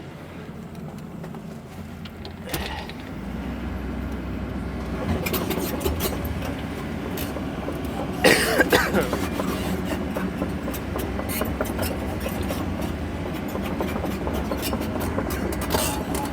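Sany excavator's diesel engine running, stepping up under hydraulic load a few seconds in, with the bucket scraping and knocking through dirt; the loudest scrape comes about eight seconds in.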